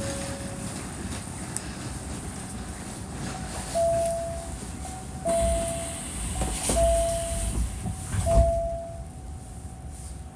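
Hankyu 1300 series electric train running at speed, heard from inside the car: steady rumble and hiss with a couple of low clunks from the wheels. Partway through, four short beeps of one steady pitch sound about a second and a half apart.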